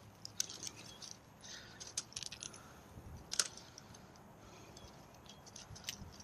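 Steel chain clinking now and then as it is handled and hooked on: a scattering of light metallic clinks, the sharpest a little past the middle.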